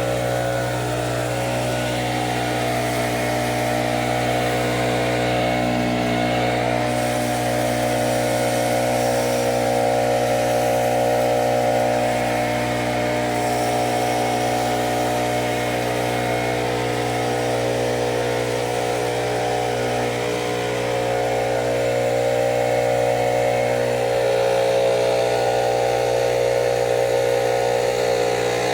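A motor or engine running steadily at a constant pitch, with a strong even hum.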